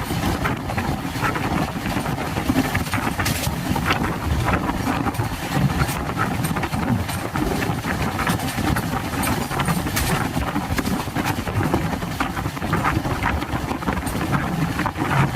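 Train running, heard from on board: a steady rumble with scattered clicks and knocks of the wheels and carriages.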